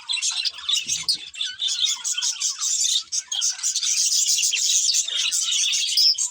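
Budgerigars chirping and chattering continuously in a dense stream of quick, high overlapping chirps.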